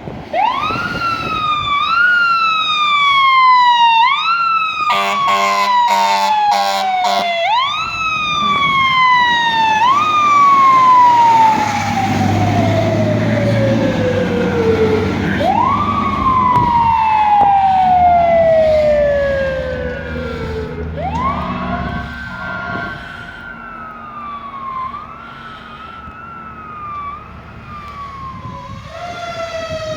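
Fire truck siren sounding in repeated cycles, each pitch rising quickly and falling more slowly, with two long wind-downs midway. A few seconds in, short air horn blasts cut across it. The truck's engine rumbles underneath.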